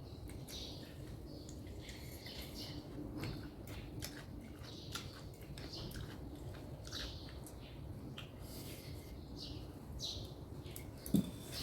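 Small birds chirping over and over in short calls, with a sharp knock and a click near the end.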